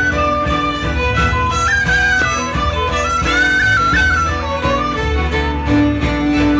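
Live traditional Celtic instrumental music from a set of a march and reels: a single stepping melody line over a steady rhythmic accompaniment.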